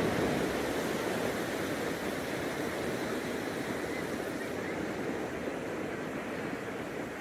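Ocean surf washing onto a beach: a steady rush of water noise that eases slightly after the first couple of seconds.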